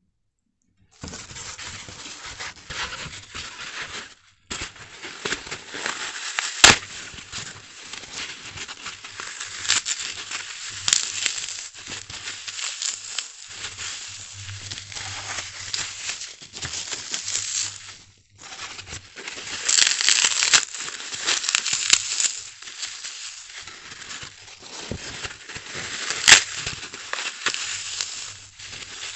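Big slices of dry, unsoaked floral foam being crushed: a dense, continuous crunching and crackling. It pauses briefly about four seconds in and again around eighteen seconds, with a few sharper snaps along the way.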